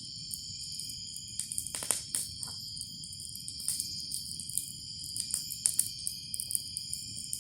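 A steady chorus of crickets and other night insects trilling at several pitches, with scattered pops and crackles from a burning wood bonfire.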